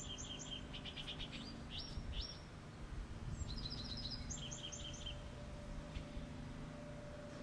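A small songbird singing in quick runs of high chirps, twice, over a low steady outdoor rumble.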